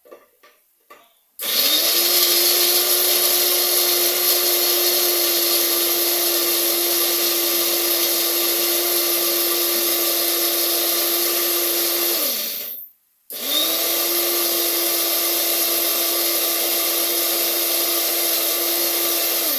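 Electric mixer grinder grinding garlic, ginger, green chillies and whole spices into a paste. A few light knocks first, then the motor runs steadily for about eleven seconds, stops briefly, and runs again for about seven seconds.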